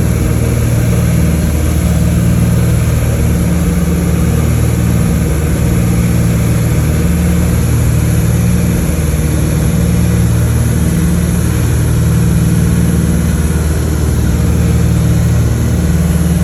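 Twin piston engines and propellers of a Cessna 310K, heard steadily from inside the cabin, with a slow regular swelling and fading of the low drone about every second and a half to two seconds.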